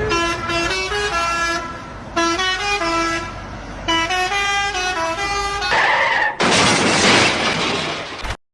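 A horn-like tone playing a tune in short stepped notes, like a musical vehicle horn, followed about six seconds in by a loud hiss lasting about two seconds that cuts off suddenly.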